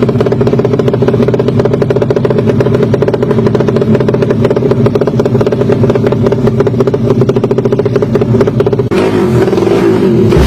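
Drag-racing motorcycle engine running loud and steady at a held engine speed, its pitch not rising or falling. About nine seconds in the sound changes character.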